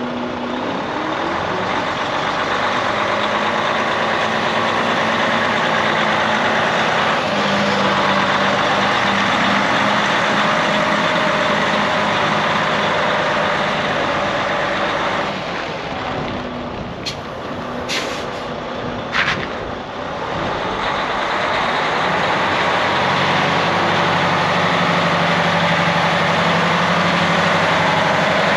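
2012 Freightliner Cascadia day cab's Detroit diesel engine running steadily, its pitch shifting a few times. About two-thirds through the engine drops back and three short, sharp hisses of air come from the truck's air system.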